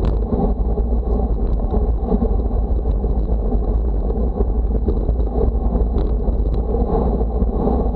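Steady wind rush and low rumble buffeting the microphone, with no let-up.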